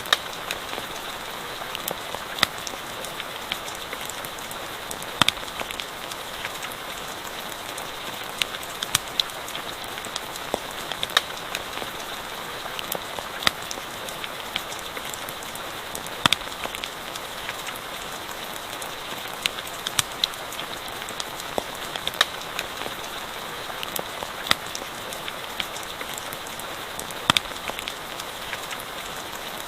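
Steady rain with a campfire crackling, giving sharp pops at irregular moments a second or few apart.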